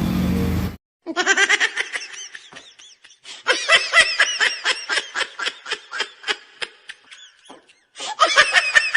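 A scooter engine runs for under a second, then cuts off abruptly. Laughter follows in rapid bursts, pausing briefly about seven and a half seconds in and starting again.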